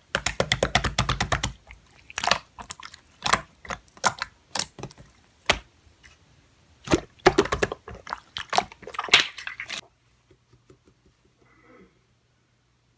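Slime being squeezed and pressed by hand, making a run of sharp wet clicks and pops: rapid for the first second and a half, then scattered, stopping about ten seconds in.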